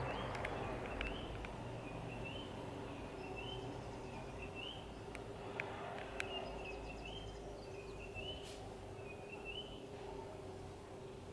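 A bird calling over and over, a short rising chirp about every three-quarters of a second, over a faint steady hum and a low background rumble, with two sharp clicks near the middle.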